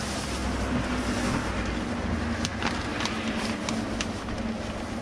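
Steady low rumble and hum with hiss, and a few light clicks or taps about halfway through.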